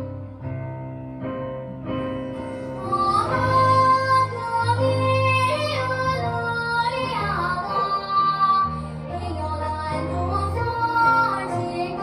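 A child singing a Korean children's song in Jeju dialect over instrumental accompaniment; the accompaniment plays alone at first and the voice comes in about three seconds in, with gliding, held notes.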